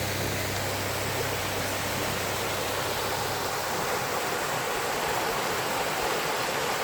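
Steady rush of flowing and falling water, an even hiss with no breaks.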